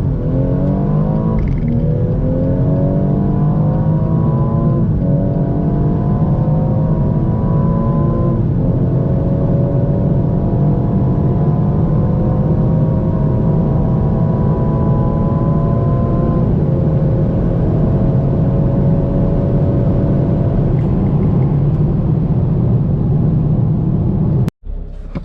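Tuned BMW M240i xDrive's turbocharged B58 inline-six at full throttle, pulling hard up through the gears. The pitch climbs steadily and drops at each upshift, about five times, with each later gear rising more slowly. Near the end the sound cuts out abruptly and a fresh run starts climbing.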